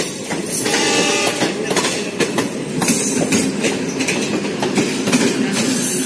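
A departing passenger train rolling past, its wheels clicking over the rail joints. A brief shrill tone sounds about a second in.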